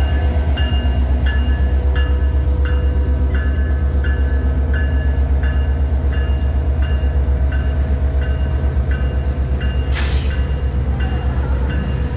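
Train with a steady, heavy low drone from its diesel locomotives, while a railway bell rings evenly about once every 0.7 seconds. A short, sharp click sounds about ten seconds in.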